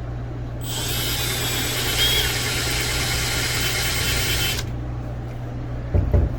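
Milwaukee M12 cordless drill with a tile bit running and grinding into slate for about four seconds, starting shortly after the start and then stopping. A couple of dull knocks follow near the end.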